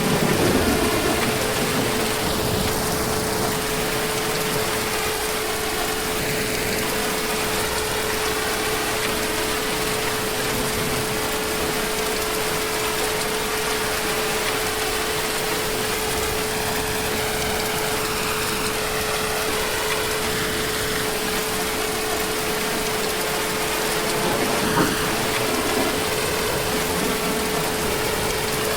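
Steady heavy rain, an even wash of noise, with a steady hum held at one pitch under it.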